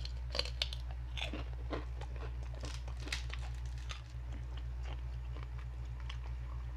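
Deep-fried pork rinds (chicharon) being bitten and chewed, a run of irregular crisp crunches, over a steady low hum.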